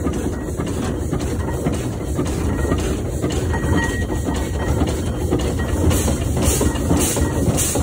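1914 Fowler showman's steam engine on the move: steady low rumble and clatter of its gearing and iron-shod wheels. Near the end come hissing beats about twice a second.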